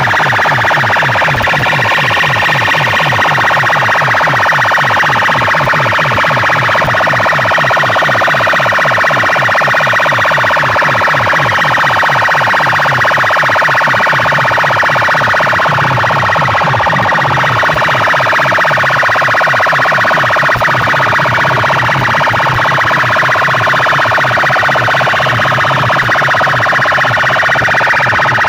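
Competition DJ sound system played at full volume: loud, harsh music with a pulsing bass beat about three times a second and wavering high tones over it.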